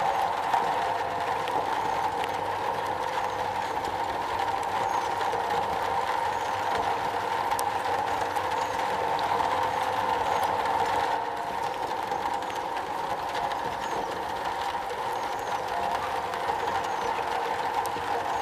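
Steady rain falling on a metal roof: a dense, even wash of drops, with a few sharper ticks standing out.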